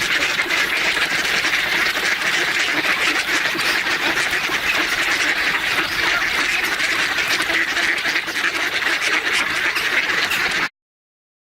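A flock of ducks quacking continuously in a dense chorus, cutting off abruptly near the end.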